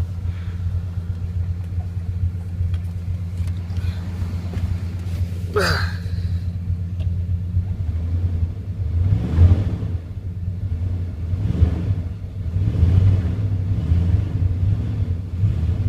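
1999 Dodge Ram 1500's Magnum 5.2-litre V8 running at idle, then revved in several short blips in the second half. A brief falling squeal about six seconds in.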